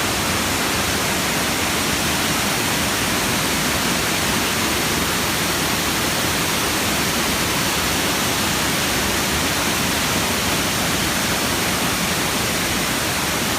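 River water rushing steadily over rocks or a waterfall, an even, unbroken noise of fast-flowing water.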